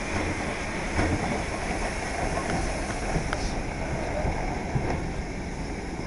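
Steam locomotive tender rolling slowly past at close range: a steady running noise with a few scattered sharp clicks from the wheels on the rails.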